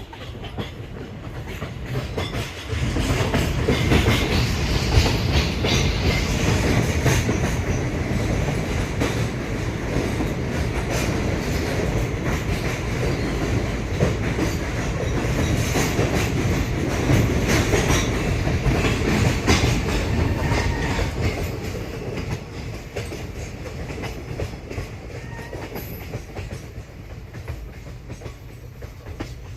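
Moving train's wheels clattering over the rails with a steady rumble, heard from aboard. It grows sharply louder about three seconds in and eases off over the last several seconds.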